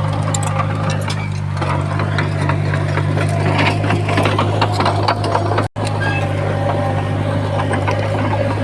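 Heavy diesel earthmoving machinery running steadily, with a constant low engine drone and irregular metallic clanking and rattling over it. The sound cuts out for an instant a little past halfway.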